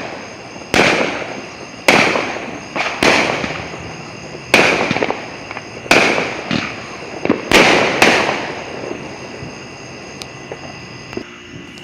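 Fireworks exploding in a rapid series of loud bangs, about one a second, each trailing off in echo. The bangs stop about nine seconds in.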